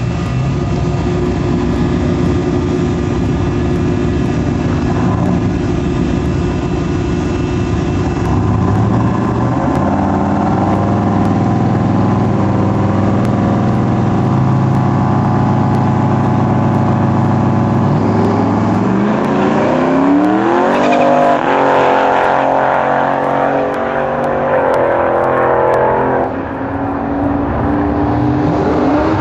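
A turbocharged 383 Windsor stroker V8 in a 1995 Ford F-150 Lightning pickup runs at a steady pitch for most of the first two-thirds. It then accelerates hard with a steeply rising pitch and holds high. A few seconds before the end the pitch drops, then it begins to climb again.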